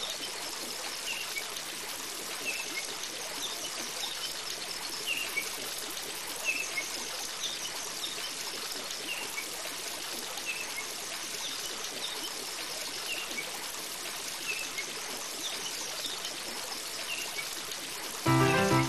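Steady rush of water with a short, high chirp repeated about every second and a half. Piano music starts just before the end.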